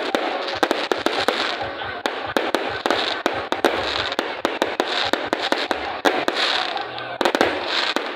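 Aerial fireworks display going off: a dense, unbroken string of sharp bangs and crackles, several a second.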